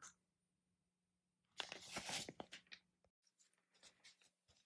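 Small plastic model-kit parts being handled and set down on the workbench: a brief clatter of clicks and rustles about two seconds in, then a few faint ticks, with near silence around them.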